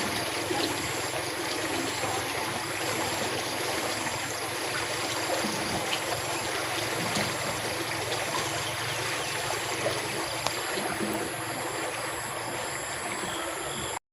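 Water running steadily, as of a stream flowing after rain, with a few faint ticks; it cuts off suddenly near the end.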